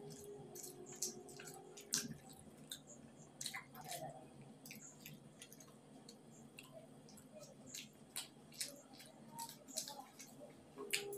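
Close-miked eating: irregular wet chewing and lip-smacking clicks from a person chewing roti and curry, with soft squishes of flatbread and curry handled by hand.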